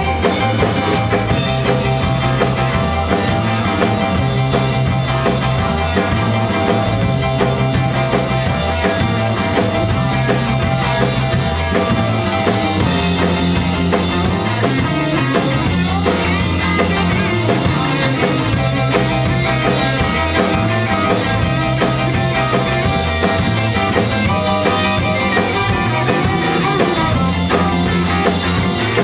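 Rock and roll band playing an instrumental passage: electric guitar over a walking bass line and drum kit, with a steady beat and no vocals.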